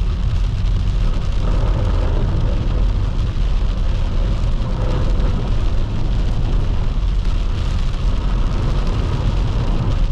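Steady road and engine rumble of a car driving through heavy rain, with rain hitting the car.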